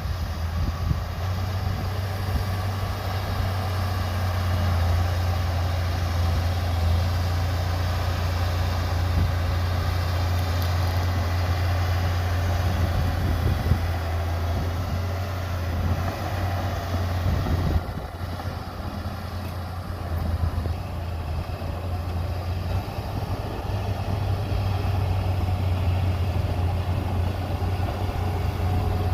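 Heavy diesel earthmoving machinery running steadily, a bulldozer or dump truck engine, with a steady low drone. It drops slightly in level about two-thirds of the way through.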